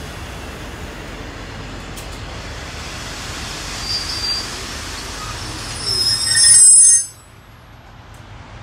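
V/Line N-class passenger carriages rolling slowly with a steady rumble, a brief high squeal about four seconds in, then a louder squeal of several high pitches from about six seconds in that cuts off sharply around seven seconds as the train comes to a stand.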